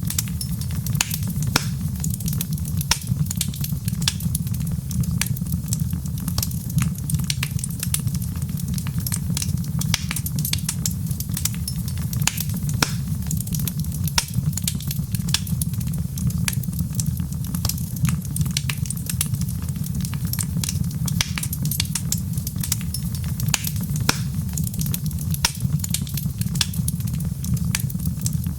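Wood fire crackling: frequent, irregular small pops and snaps over a steady low rumble.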